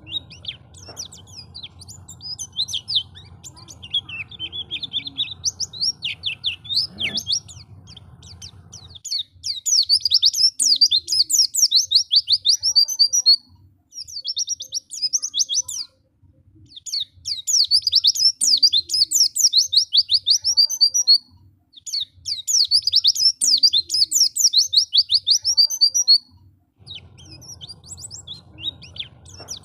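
White-eye (pleci) singing a fast, high twittering song. It is quieter with a low background rumble at first, then comes in three loud runs of about four seconds each, with short pauses between them.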